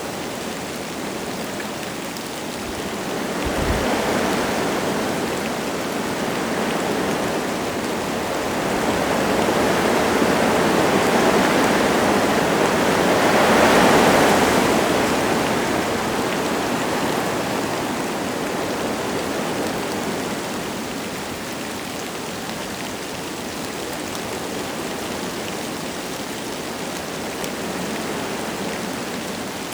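Wind gusting through forest trees with light rain falling: a steady rushing that builds to its loudest gust about halfway through, then eases back.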